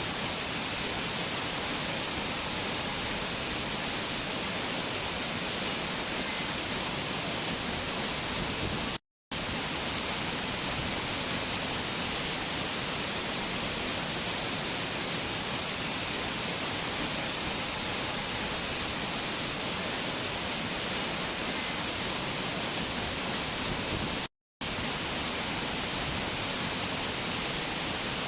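Waterfall: a steady rush of falling water at an even level, broken twice by a brief cut to dead silence, about 9 and 24 seconds in.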